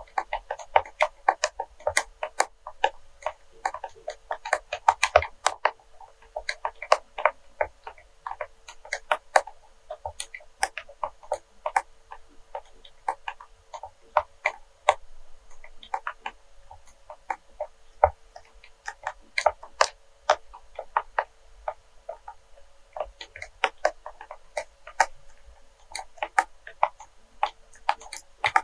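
Fingernails tapping and clicking on wax melts, quick irregular taps several a second, with a faint steady hum underneath.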